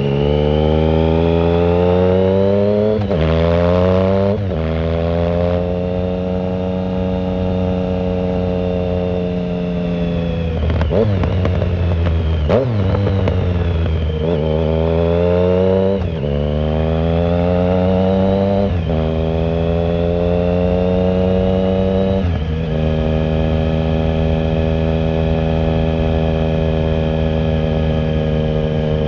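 The 2009 Triumph Speed Triple 1050's inline three-cylinder engine, heard through an unsilenced shorty Competition Werkes exhaust, pulls hard through the gears. Its pitch climbs and drops sharply at several upshifts. About eleven to thirteen seconds in it slows with a few sharp cracks, then accelerates through more shifts and settles to a steady cruise near the end.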